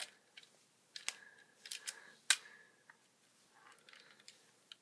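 LEGO revolver being handled: a few sharp, separate plastic clicks, the loudest a little past two seconds in, with faint handling noise between, as brick 'bullets' and parts are fitted into the cylinder.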